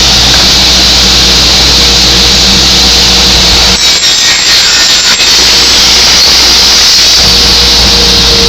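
Aluminium circular saw machine with an 18-inch blade and a 7.5 hp motor running loudly with a steady hum and high hiss; the low hum drops out briefly about four to five seconds in.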